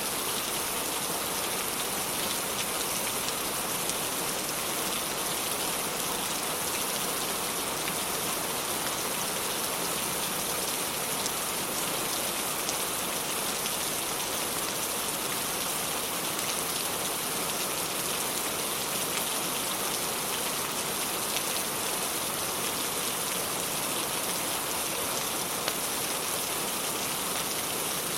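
Steady, even rain falling on a surface, with a few faint sharp ticks now and then.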